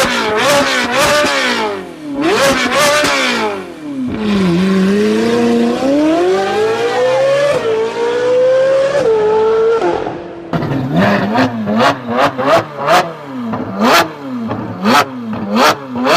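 Supercar engine revved hard several times, then held in a long climb in revs, then blipped quickly with sharp exhaust pops and bangs, the backfires that come with flames from the exhaust.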